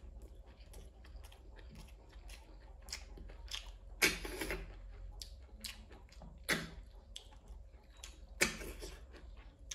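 Close-miked chewing of a handful of rice and curry eaten by hand: many small mouth clicks throughout, with louder mouth sounds about four, six and a half and eight and a half seconds in, the first as the hand brings food to the mouth.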